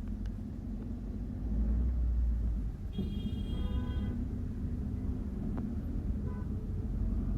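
Steady low rumble of a moving bus heard from inside the cabin, swelling briefly, with a high multi-tone horn sounding for about a second midway.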